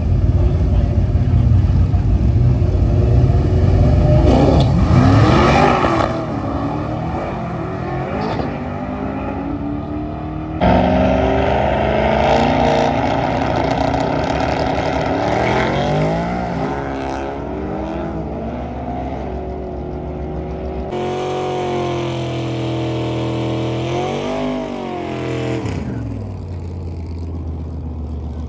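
Drag-racing car engines revving and accelerating, their pitch rising and dropping repeatedly. The sound is split into several clips by abrupt cuts about 10 and 21 seconds in.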